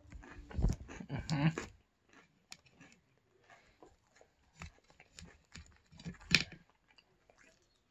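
Close-miked chewing of crispy pepperoni pizza: crunching bites and wet mouth sounds, loudest in the first two seconds, then softer clicks with one sharp crunch about six seconds in.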